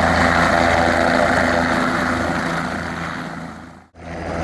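Aircraft engine running steadily with a level, humming drone. It fades out to a moment of silence near the end, then fades back in.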